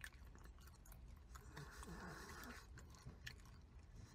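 Faint chewing of a mouthful of pizza, with soft scattered mouth clicks at a very low level.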